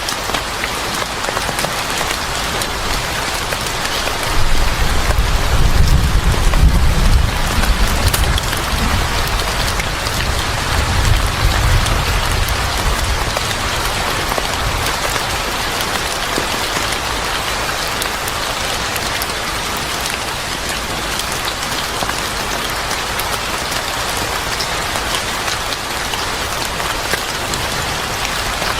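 Steady, heavy rain falling, with a low rumble of thunder rolling in about four seconds in. The rumble is loudest a few seconds later, swells again around eleven seconds, and then fades out under the rain.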